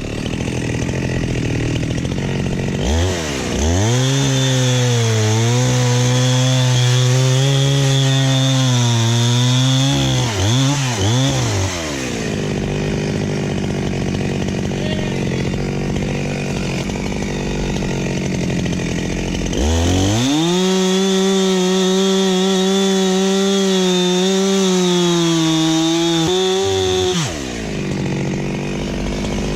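Two-stroke chainsaw revved up to full throttle into a long cut, blipped a couple of times, dropped back to idle, then run up hard again for a second long cut before easing back to idle near the end.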